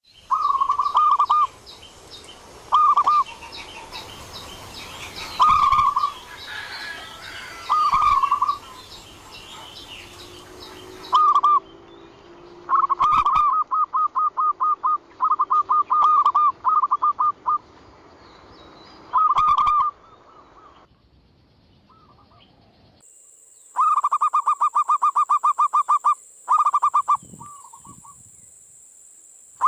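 Zebra dove (perkutut) cooing, the lure call used to draw in wild perkutut: short phrases of quick, staccato coos repeated every few seconds, with longer runs of phrases in the middle and again near the end.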